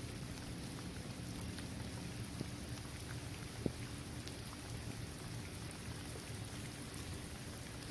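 Steady rain falling on a paved court, trees and grass, with scattered individual drop ticks and one sharper tick a little past halfway.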